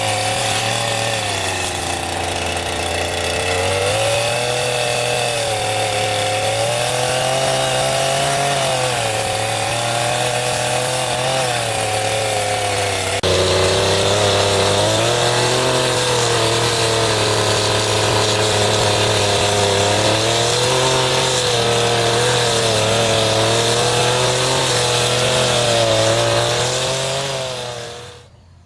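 Chainsaw running and cutting wood, its engine pitch sagging and recovering every few seconds as the chain bites and clears. The sound fades out near the end.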